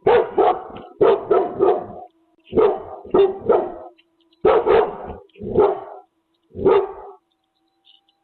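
A dog barking repeatedly, in quick runs of two to four barks with short gaps between them, stopping about seven seconds in.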